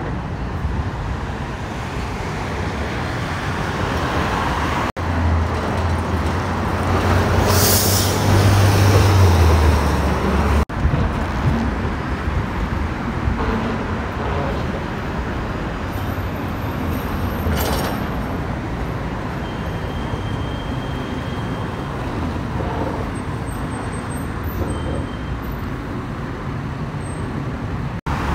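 Road traffic with heavy trucks passing. The loudest stretch, between about five and ten seconds in, is a big diesel engine's low drone as it goes by, with a short hiss near its middle; a second short hiss comes later.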